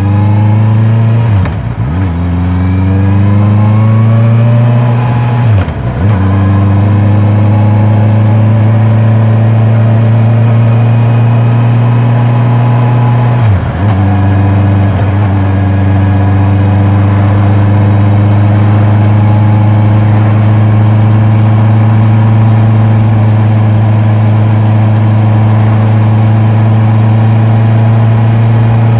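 Honda CB650R's inline-four engine and exhaust pulling away and accelerating through the gears. The pitch climbs and drops briefly at upshifts about two, six and fourteen seconds in, then the engine runs at a steady cruising speed.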